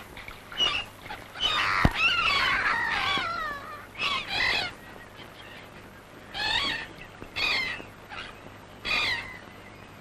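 Birds calling in short, wavering, chattering calls, several overlapping about two seconds in, then single calls every second or two. A single sharp knock sounds just before two seconds in.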